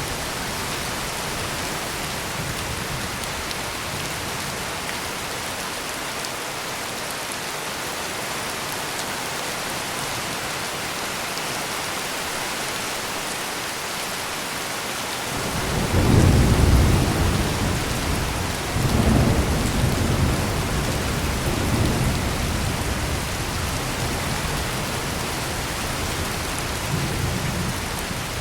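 Heavy rain pouring steadily, with a roll of thunder breaking in about halfway through: a deep rumble, loudest at first, swelling again a few seconds later and fading away toward the end.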